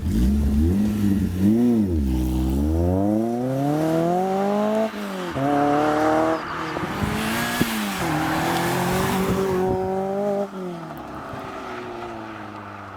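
Renault Clio 182's 2.0-litre four-cylinder engine through a stainless steel racing exhaust, revving hard. The pitch climbs in long pulls and drops sharply twice, about five and six seconds in, as at gear changes. It eases off after about ten seconds and fades away.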